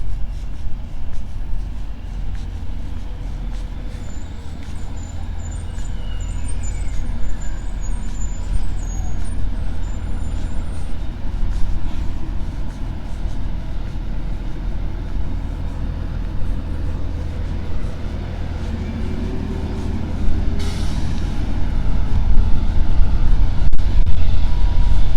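Street traffic with a heavy vehicle such as a truck or bus running close by: a steady low rumble, a sudden short hiss about twenty seconds in, and the engine noise growing louder near the end.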